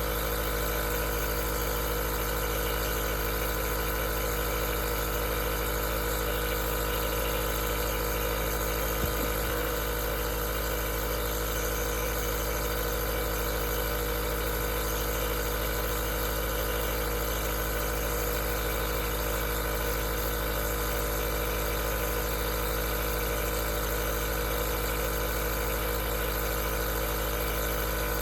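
Aerosol nebulizer running steadily: an even motor hum with a hiss of spraying air above it, and one faint tick about nine seconds in.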